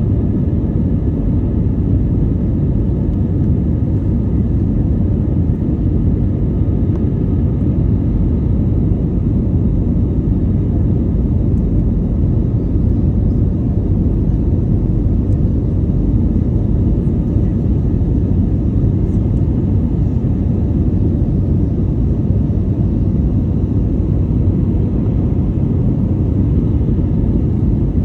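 Airplane engine noise during takeoff: a loud, steady low rumble that holds unchanged, with no rise or fall in pitch.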